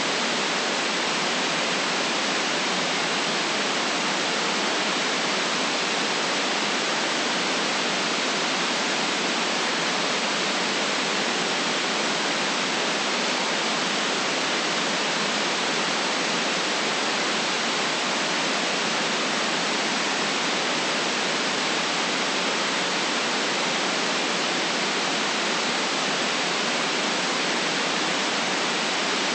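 Steady white noise for sleep: an even, unchanging hiss with no rise, fall or breaks.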